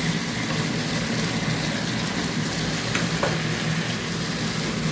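Squash, green beans and chicken sizzling as they stir-fry in a pan, stirred with a wooden spatula: a steady frying hiss with a couple of faint clicks about three seconds in.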